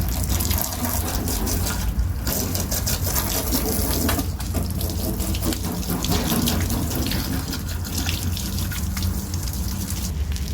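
Water spraying steadily onto a car's bodywork as it is washed, with a steady low hum underneath.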